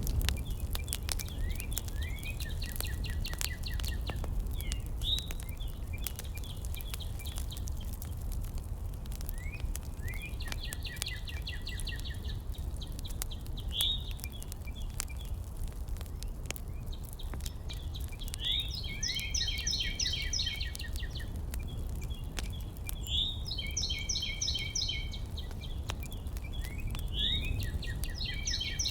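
A songbird singing short phrases of rapid, trilled notes, repeated every four to five seconds, over a steady low rumble with scattered faint clicks.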